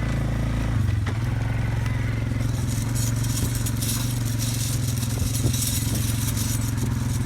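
Four-wheeler (ATV) engine running steadily while towing a drag harrow over plowed ground. A rough, clicky hiss rises over the engine from about two and a half seconds in and fades near the end.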